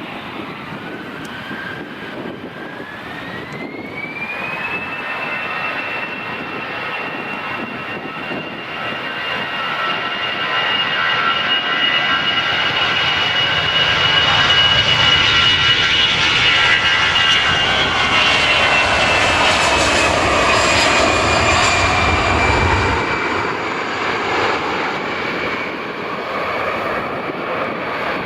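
Jet airliner engines spooling up with a rising whine, then a steady high whine over a deep rumble that grows louder as the aircraft passes, then falls in pitch and level as it goes by: a jet taking off.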